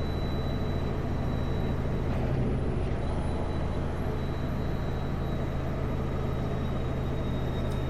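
Kenworth W900L semi truck's diesel engine running at a steady pitch with road noise, heard from inside the cab.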